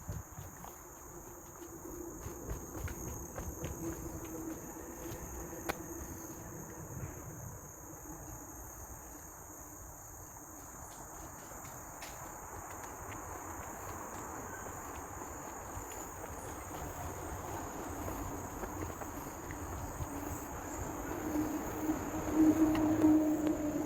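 Steady high-pitched insect chorus of crickets and other insects. A low hum grows louder near the end.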